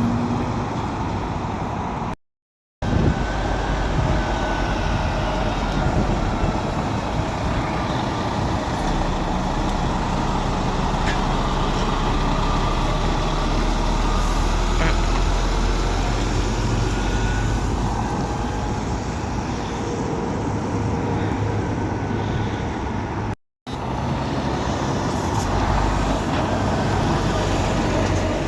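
Lorry diesel engines running, with steady road traffic noise. The sound cuts to silence for a moment twice: about two seconds in and near the end.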